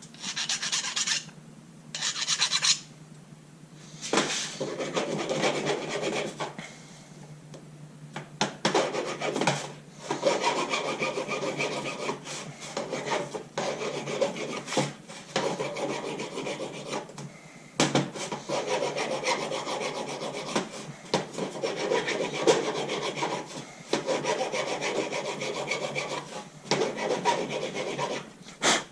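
Hand scraping and rubbing on an engine part, in short bursts at first and then longer runs of steady back-and-forth strokes with brief pauses.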